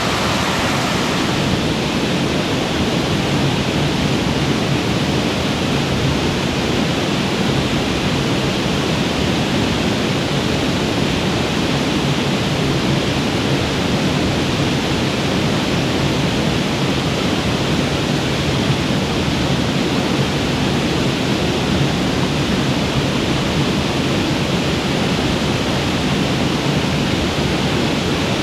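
Mountain creek waterfall rushing: a loud, steady roar of falling water.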